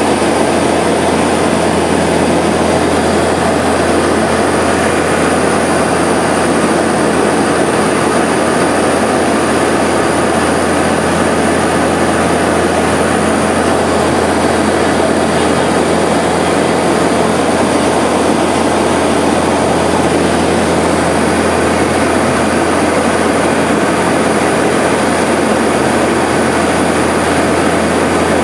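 Seaplane's propeller engines running steadily in flight, heard from inside the cabin as a loud, even drone with a low hum and a faint high whine.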